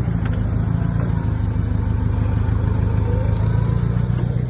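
A vehicle engine running steadily at idle, a low, even hum.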